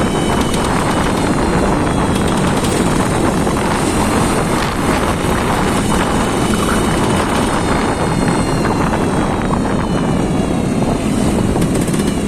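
An engine being test-run, running loud and steady without a break.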